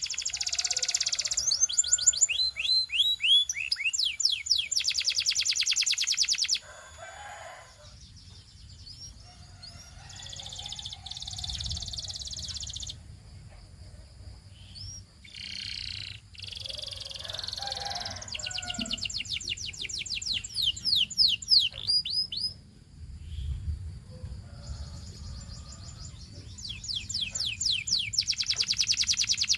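Canary singing: rapid rolling trills and quick sweeping whistled notes in phrases broken by short pauses. The singing is loudest in the first six seconds, again around the twentieth second, and once more near the end.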